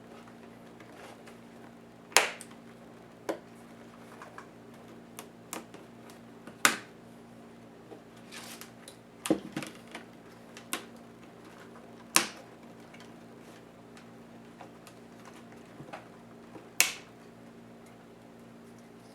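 Sharp clicks and taps of small tools and plastic and metal netbook parts being handled and set down while a Lenovo IdeaPad S10-3T is taken apart, coming at irregular intervals. A faint low hum runs underneath.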